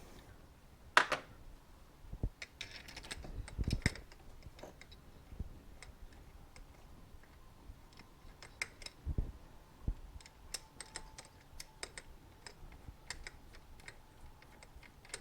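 Irregular small clicks and light knocks of metal fork parts and hand tools being handled while a Suzuki TS250 front fork is put back together. The sharpest click comes about a second in, and there is a cluster of knocks a few seconds in.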